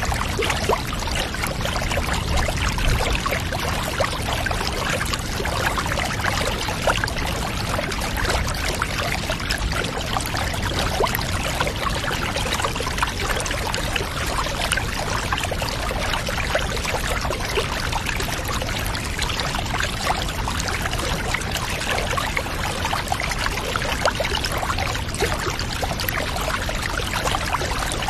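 Water running and pouring steadily, an even rush dotted with many small splashes, unchanging throughout.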